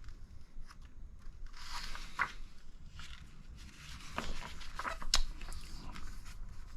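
Paper instruction-manual pages being rustled and turned, with a few light clicks and handling noises.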